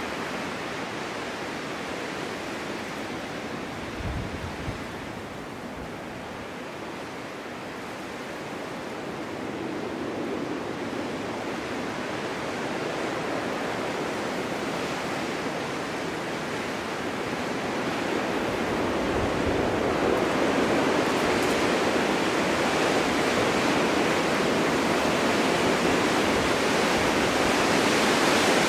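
Snowstorm wind blowing steadily as an even rushing noise, swelling louder in the second half as a gust builds, with a brief low rumble about four seconds in.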